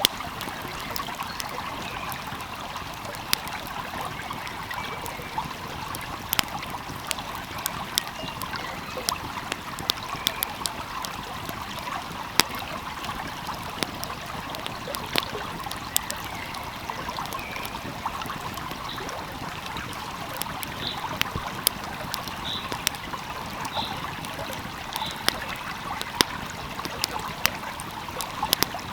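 Wood fire crackling, with sharp, irregular pops over the steady rush of a flowing stream.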